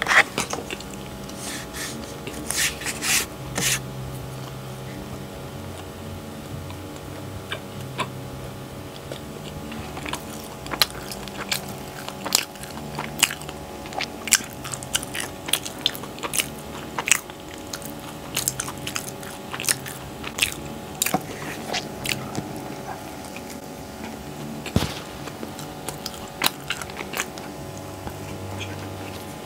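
Close-miked biting and chewing of soft, buttery cheese bread, with many short, sharp mouth clicks and smacks scattered throughout.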